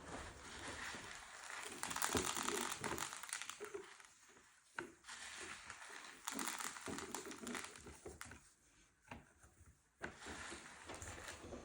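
Hands working pinecone bird feeder materials, making irregular crinkling and crunching, with quieter gaps about four seconds in and again near the end.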